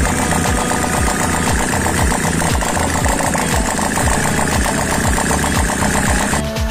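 Custom two-cylinder engine in a Honda Supra motorcycle running steadily at idle, with a regular low pulse about two to three times a second. It cuts off abruptly near the end.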